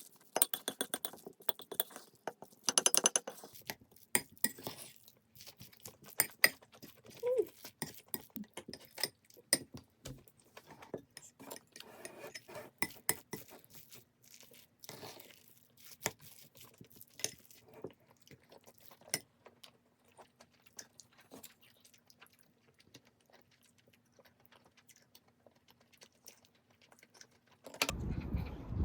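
Scattered light clicks, taps and clinks of small objects being handled, densest in the first few seconds, with a brief squeak about seven seconds in. A louder rush of noise comes in about a second before the end.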